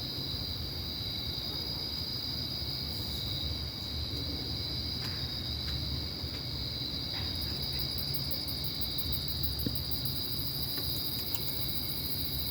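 A steady chorus of insects trilling, crickets by the sound of it, with a faster, higher pulsing chirp joining about halfway through. A low, steady rumble sits underneath.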